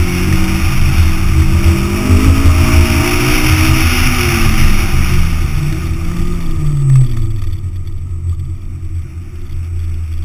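Sports car engine heard from outside the car with wind rushing over the microphone. Its note falls steadily over several seconds as the car slows, then settles lower and quieter near the end.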